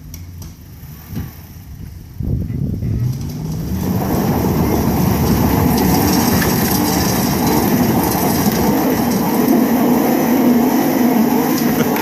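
Truck engine revving up sharply about two seconds in, then running flat out under heavy load with a loud, steady roar, joined by the noise of wheels spinning and throwing dirt.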